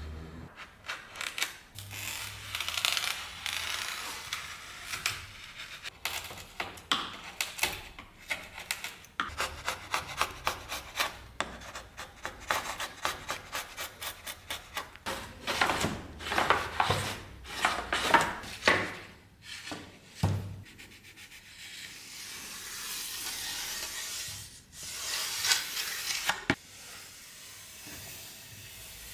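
Hand abrasive work, a file or abrasive rubbed back and forth over a workpiece. It makes many quick rasping strokes through the middle and a few longer, steadier rubbing passes near the end.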